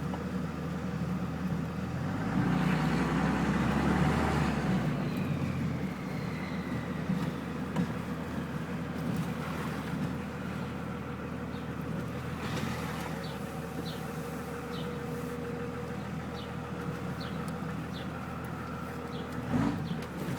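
24-valve Cummins diesel with a VP44 injection pump and a 6-inch exhaust, idling. About two seconds in it is revved briefly, running louder and deeper for about three seconds, then settles back to idle with a whistle falling in pitch.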